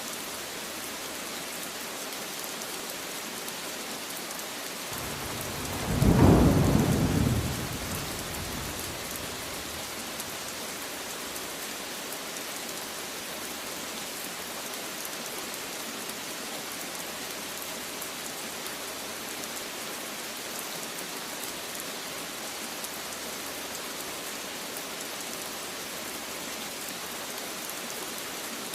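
Steady rain hissing, with one roll of thunder that rises about five seconds in, peaks a second or two later as the loudest sound, and rumbles away over the next couple of seconds.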